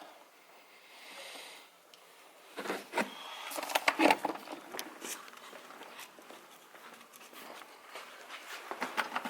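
Scattered clicks and knocks of hand tools and engine parts being handled, busiest from about two and a half to five seconds in, with fainter taps after that.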